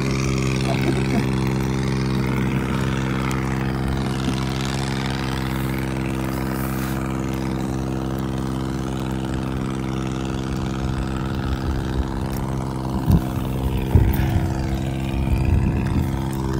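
Motorboat engine running at a steady pitch, with rushing water and wind noise over it, and a few low bumps in the last few seconds.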